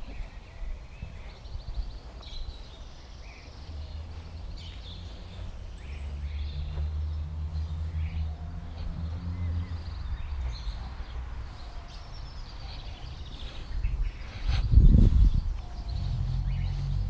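Small birds chirping and singing, over a low rumble that builds from about four seconds in. There is a brief, loud low thump about fifteen seconds in.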